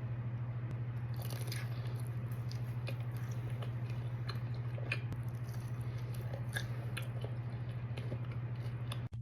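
Close-miked chewing and biting of soft baked garlic-parmesan pizza puffs, with scattered small clicks and crackles. A steady low hum runs underneath and cuts off suddenly near the end.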